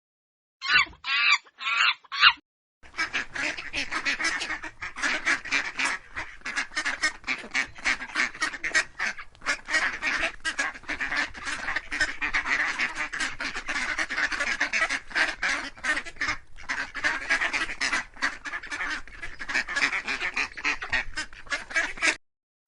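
A flock of ducks quacking continuously in rapid, overlapping calls, which start about three seconds in after a short pause. Just before that pause come a few chicken clucks.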